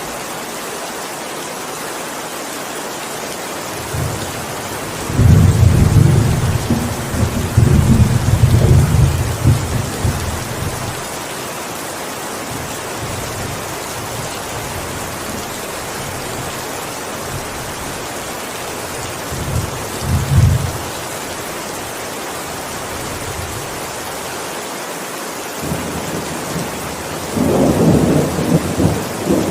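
Steady heavy rain with thunder rumbling over it: a long low rumble from about five to ten seconds in, a short one around twenty seconds, and another starting near the end.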